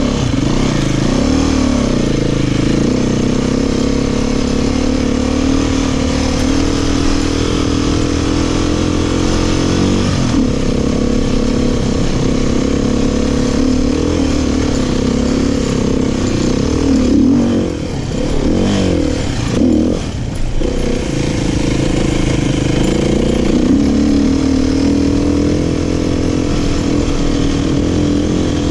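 Dirt bike engine, a Beta 500 single-cylinder four-stroke, running under way, its note rising and falling with the throttle. It eases off briefly about two thirds of the way through, then pulls again.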